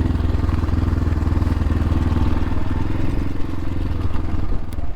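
X-Pro Templar X 250 dirt bike's single-cylinder engine running steadily under way, with a rapid, even firing beat.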